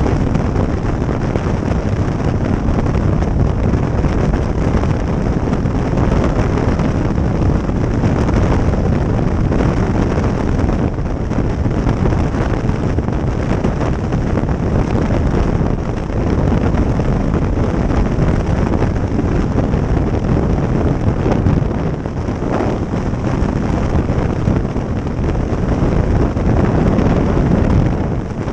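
A motorcycle riding at road speed: wind rushing over the microphone with engine and road noise underneath.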